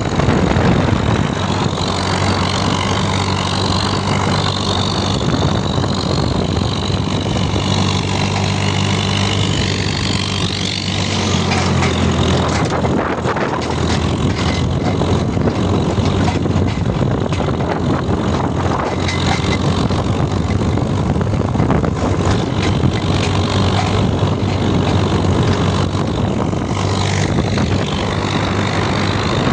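Tractor engine running steadily, its hum plainest in the first ten seconds, with wind buffeting the microphone throughout.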